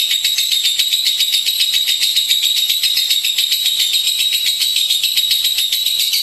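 Lovebird singing a long, unbroken chattering trill: a rapid run of high, scratchy notes, many to the second, with no pause.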